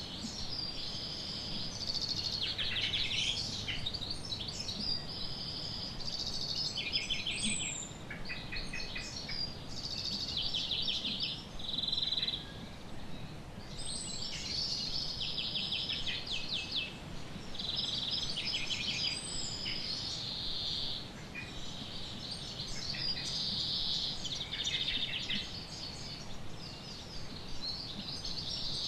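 Small birds chirping and trilling almost without a break, several calls overlapping, with rapid repeated notes and short upward slides, over a faint low background hiss.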